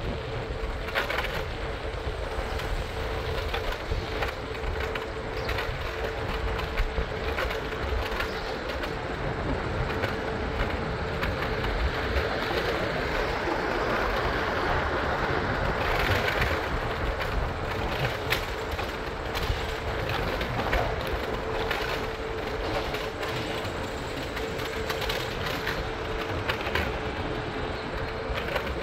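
PATH train running along the track: a steady rumble with frequent clicks and knocks from the wheels and a constant hum, growing louder about halfway through.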